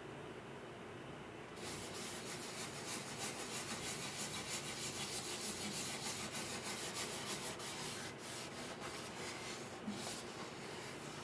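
Repeated rubbing strokes that start about one and a half seconds in and ease off near the end.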